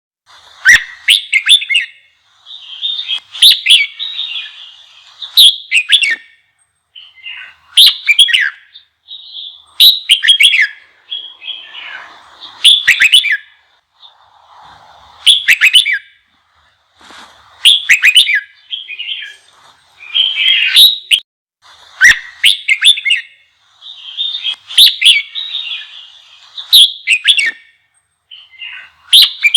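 Red-whiskered bulbul singing a loud, fired-up competitive song. Short, quick whistled phrases repeat every second or two with brief pauses in between.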